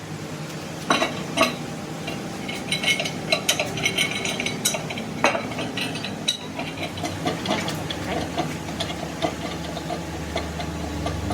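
Metal on metal in a workshop: tools and parts clinking, tapping and scraping, with several louder knocks and a run of regular ticks in the second half, over a steady machine hum.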